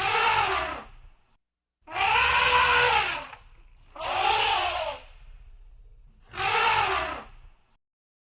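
Elephant trumpeting: four calls of about a second each, coming roughly every two seconds, each rising and then falling in pitch.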